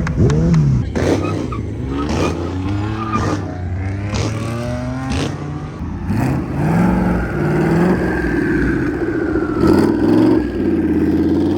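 Car engines running and revving, with people shouting over them.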